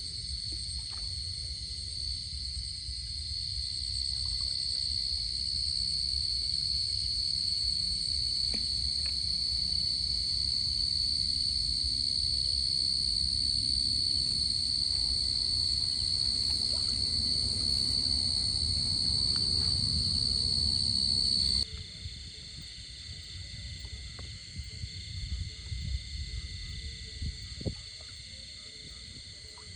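Steady, high-pitched chorus of insects droning on fixed pitches over a low outdoor rumble. About two-thirds of the way through, the sound drops abruptly to a quieter, slightly different insect drone, and the rumble stops.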